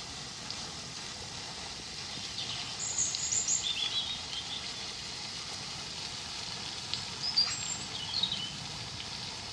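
Small songbirds singing: short bursts of high chirping notes a few seconds in and twice more later, over a steady outdoor background hiss.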